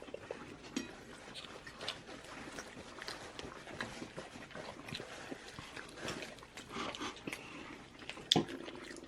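People chewing and smacking on fried chicken close to the microphone, with scattered small crunches and clicks.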